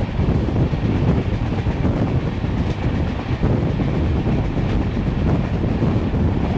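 LHB passenger coaches running at speed, a steady rumble of wheels on the rails heard from aboard the train.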